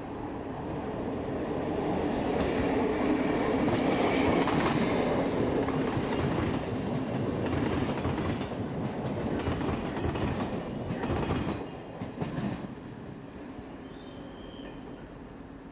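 Passenger train passing close on a platform track: a steady rolling rumble that builds as it comes in, with wheels clicking over rail joints as the coaches go by. The sound drops off suddenly as the last coach passes, leaving a few faint high squeaks from the wheels.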